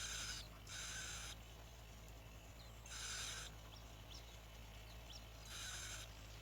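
A series of harsh, rasping bird calls, four in all, each about half a second long and a second or two apart. Faint thin chirps come between them over a steady low hum.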